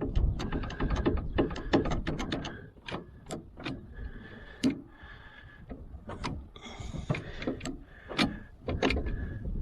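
Shift linkage rods of a VW Scirocco's manual gearbox being worked back and forth by hand, clicking and clunking irregularly with a lot of play. The slop suggests a missing or worn bushing, almost as if there were none.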